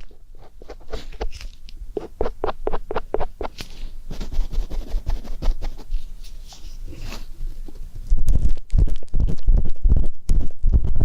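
Ear-cleaning ASMR: an ear pick scraping and rubbing against a microphone's ear in quick rhythmic strokes, several a second. About eight seconds in the strokes turn much louder and deeper.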